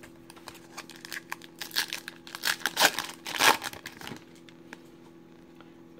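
Foil trading-card pack wrapper being torn open and crinkled, a run of rustling and tearing that is loudest around the middle, then dies down.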